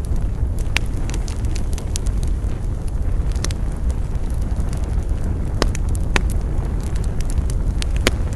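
Wood campfire burning: a steady low rumble of the flames with sharp, irregular crackles and pops of the burning wood.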